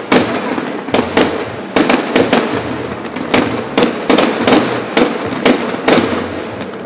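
Aerial firework shells bursting in quick, irregular succession, about two to three loud bangs a second, each crack trailing a short echo.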